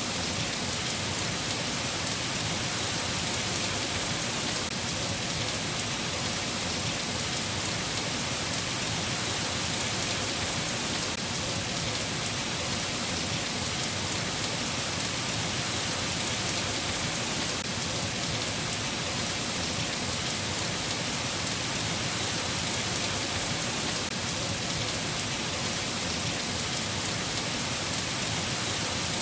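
Steady rain falling, an even unbroken hiss with no letup.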